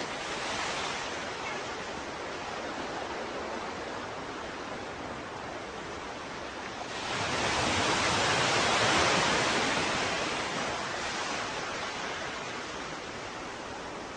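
Ocean surf washing steadily, with a bigger wave swelling and breaking about halfway through, then fading back to the steady wash.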